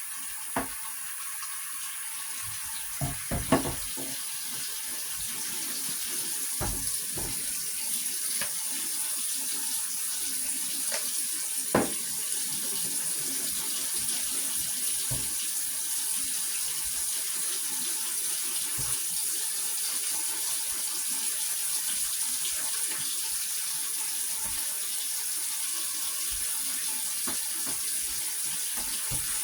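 Water running steadily from a tap into a sink, with a few sharp knocks and clinks, loudest between about three and four seconds in and again near twelve seconds.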